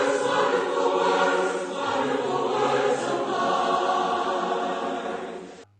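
Choir singing a gospel song, cutting off abruptly near the end.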